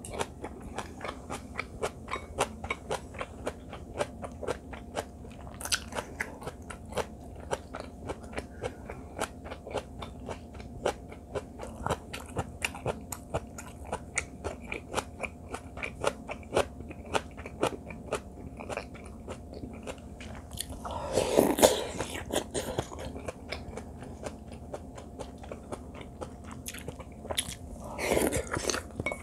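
Close-miked chewing and mouth sounds of someone eating tofu from soybean paste stew and seasoned greens: a steady run of small wet clicks. Twice a louder, noisier stretch of about a second stands out, about two-thirds of the way in and near the end.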